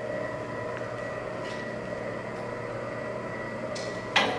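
Steady machine hum with several held tones, including a faint high whine, and a sharp click near the end.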